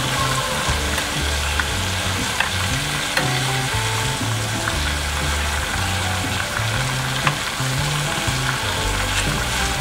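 Boneless chicken pieces deep-frying in hot oil in a small pan, a steady sizzle, with scattered clinks and scrapes of a slotted metal spatula against the pan as the pieces are turned over halfway through frying.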